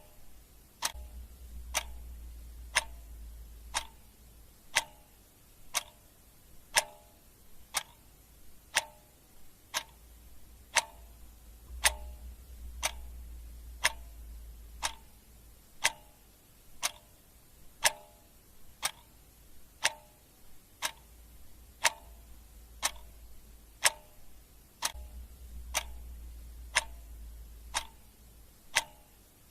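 Clock ticking steadily about once a second, alternate ticks carrying a short ringing tone in a tick-tock pattern, over a faint low hum that comes and goes.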